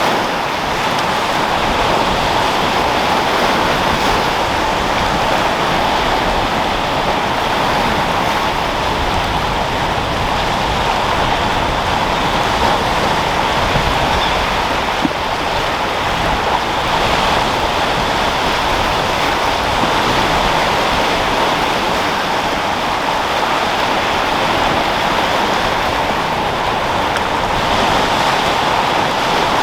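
Sea waves and wind: a steady, even rushing of surf with no distinct separate breakers.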